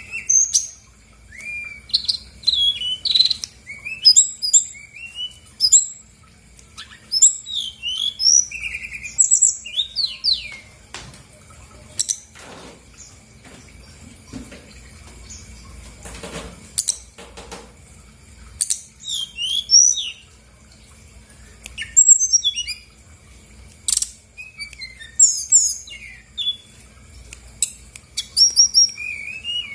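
Brown-chested jungle flycatcher singing a varied song in bursts of quick, high chirps and trills, with short pauses between phrases. A few soft knocks come in the middle.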